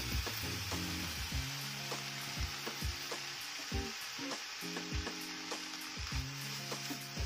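Noodles and vegetables frying in a non-stick wok with a steady sizzle. A spatula taps and scrapes against the pan every second or so as the noodles are stirred with the added spices and sauces.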